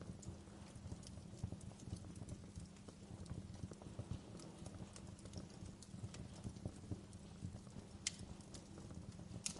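Wood fire crackling in a fireplace: irregular small snaps and ticks from burning logs over a low steady rumble, with two louder pops near the end.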